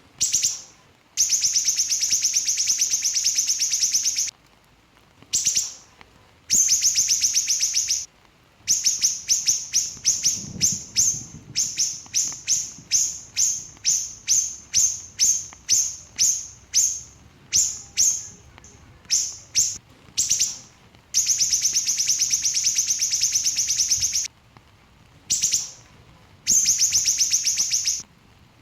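Small siri-siri songbird singing in fast, tightly packed high trills lasting a few seconds each, with short pauses between. In the middle it breaks into a run of separate sharp notes, about two a second, before going back to long trills near the end.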